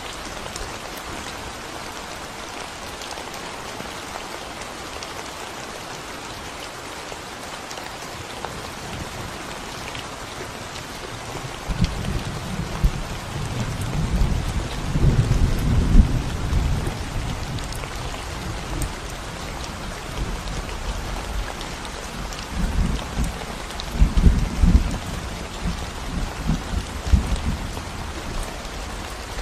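Steady rain pattering on a concrete road, joined about twelve seconds in by low rolling thunder that swells twice before easing.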